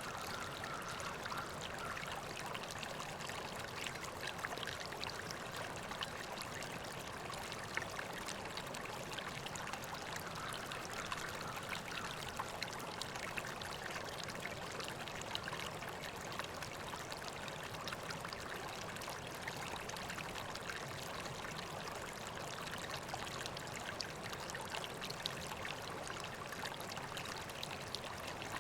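River water flowing steadily, a constant babble and trickle with many small splashes.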